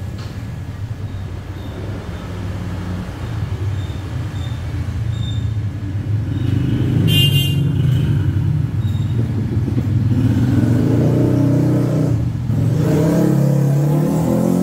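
CNC router's stepper motors driving the axes: a low hum of steady tones that jump in pitch in steps as the moves change, louder from about six seconds in. A short high chirp sounds about seven seconds in.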